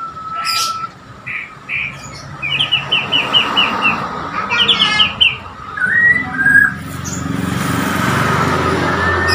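White-rumped shama (Bornean murai) singing: quick runs of repeated chirps and a short whistled glide. In the last couple of seconds a steady rushing noise, like a passing vehicle, builds up underneath.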